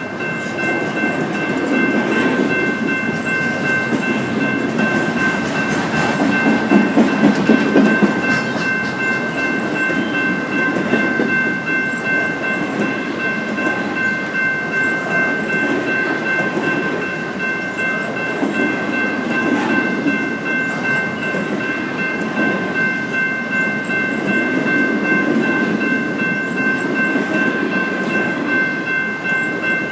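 Train cars rolling past with a steady rumble that swells and eases, and wheels clacking over the rails. Through it runs a steady high whine.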